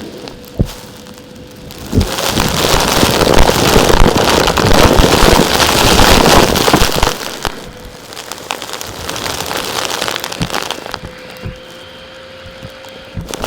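Gritty crackling and rattling of small hard rock-like pieces being crumbled and sifted. It comes in a long dense stretch of a few seconds, eases off, then returns more weakly, with a few separate knocks.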